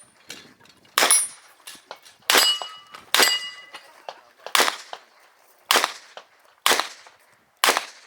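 Competition revolver firing seven shots about a second apart at an uneven pace. Two of the shots, around the middle, are followed by a brief ringing.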